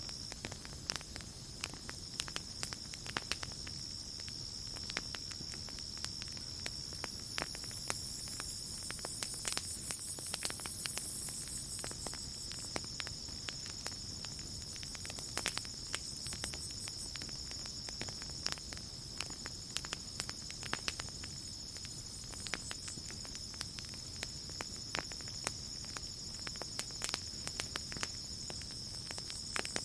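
Campfire crackling with frequent sharp, irregular pops and snaps over a low hiss of the burning fire, under a steady high-pitched chorus of night insects.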